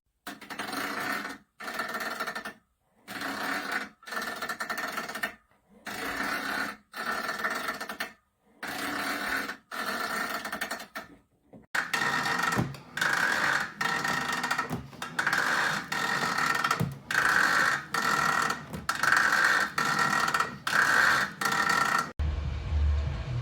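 Magnetic rowing machine whirring with each stroke in a steady rhythm, about one stroke every second and a half, quickening to faster strokes about halfway through. It cuts to a low hum near the end.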